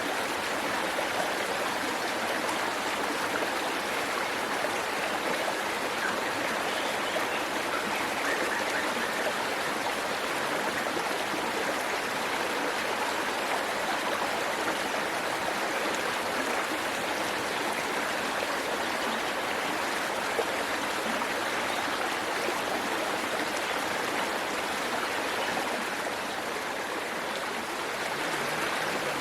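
Waterfall and its stream running, a steady, even rush of falling and flowing water.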